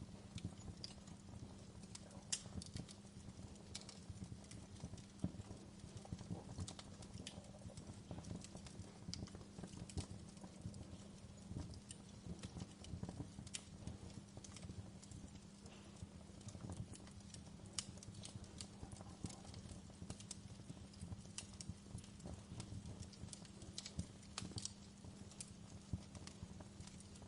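Wood fire crackling in a fireplace: faint, irregular snaps and pops over a low, steady hum.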